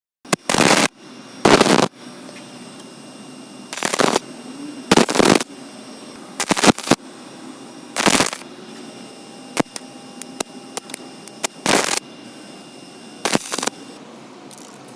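A home-made belt grinder powered by an angle grinder runs steadily while metal is pressed against the belt in about eight short grinding bursts of roughly half a second each, with a few sharp clicks in between.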